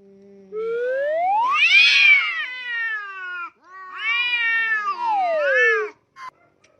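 A cat giving two long, drawn-out meows: the first rises and then falls in pitch, the second slides down at the end.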